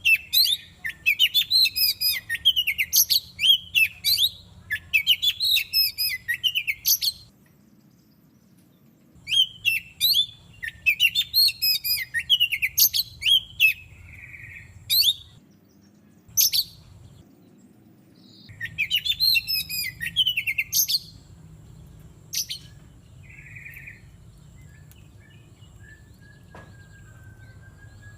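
Oriental magpie-robin singing: three long bouts of rapid, varied whistled notes with pauses of a few seconds between them, and a few single notes in the gaps, over a faint low hum. The song goes quiet for the last few seconds.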